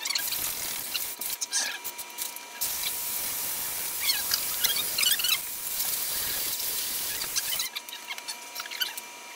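Battery drill boring out a metal engine mounting hole: a steady cutting hiss with squeals from the bit, stopping and starting briefly before one longer run of about five seconds that then stops.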